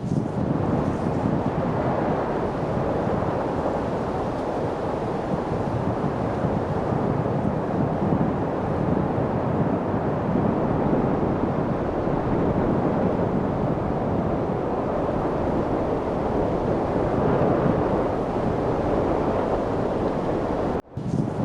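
Light wind blowing as a steady, even rushing noise. It cuts out for a split second near the end.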